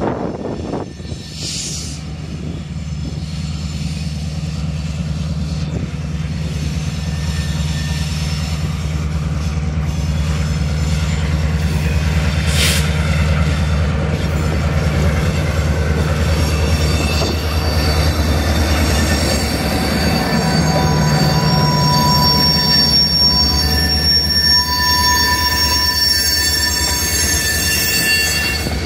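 EMD GP38 diesel-electric locomotive rumbling past, its two-stroke V16 diesel engine running steadily, followed by tank cars rolling by. From about halfway on the wheels squeal with several high steady tones over the low rumble.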